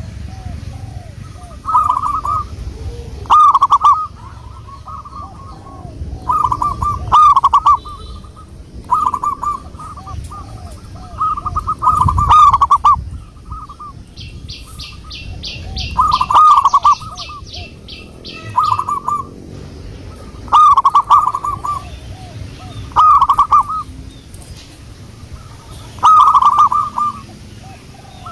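Zebra dove (perkutut) cooing over and over, short rolling coo phrases every couple of seconds. Midway another bird gives a fast run of high chirps for about two seconds.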